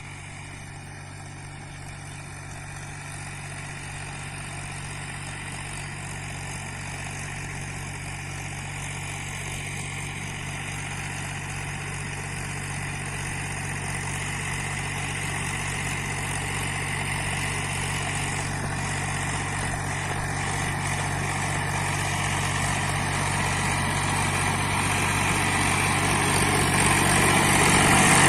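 Mahindra 265 DI tractor's three-cylinder diesel engine running at a steady speed, growing steadily louder.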